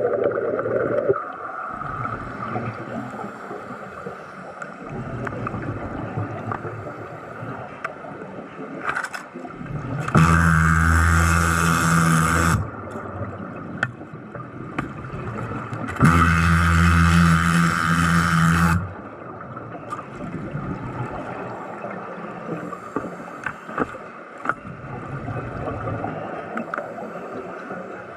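Underwater sound from a commercial diving job: steady bubbling with scattered clicks, broken twice by a loud buzzing surge of about two and a half seconds each.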